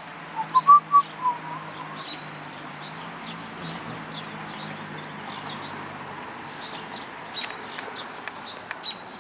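Birds calling in light, steady rain. There are a few short, clear whistled notes about half a second in, the loudest sound. Quick high chirps go on throughout over an even hiss of rain.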